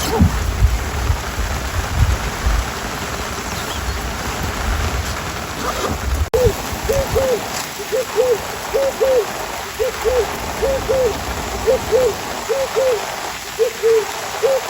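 Steady rain hiss with a low rumble underneath. About six seconds in, the sound cuts abruptly, and then a hooting animal call begins: short arched notes in pairs, about one pair a second, repeated evenly over the rain hiss.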